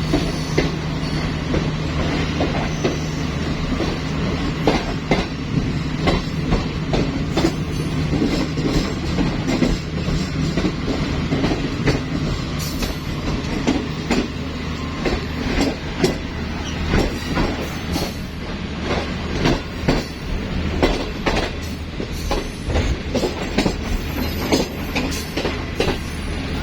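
Green Line Express passenger train running, its wheels clattering over rail joints in a continuous stream of clicks over a steady low rumble.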